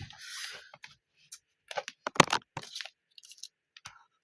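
Irregular clicks, knocks and scrapes of objects being handled, in a few short clusters.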